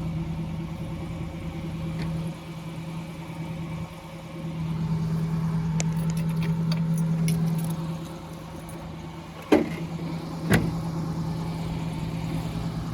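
A van engine idling steadily with a low hum. Two sharp knocks come about a second apart, a little past two-thirds of the way through.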